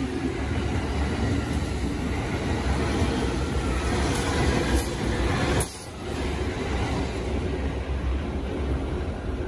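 JR E231-series electric commuter train running past along the platform, its wheels and running gear rumbling on the track. The sound drops sharply for a moment about six seconds in, then the rumble carries on.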